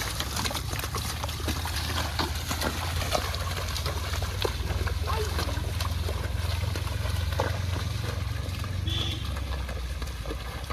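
Water trickling and splashing in small irregular ticks over a steady low hum, with indistinct voices.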